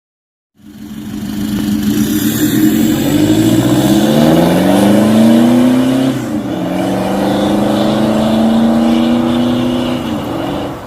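Toyota Innova Reborn engine heard through an aftermarket stainless-steel valvetronic full-system exhaust as the car accelerates: the pitch climbs for about four seconds, drops sharply about six seconds in, then holds steady before easing off near the end.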